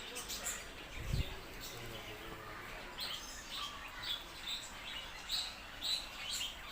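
Birds chirping: a run of short, high calls from about three seconds in. A low thump about a second in.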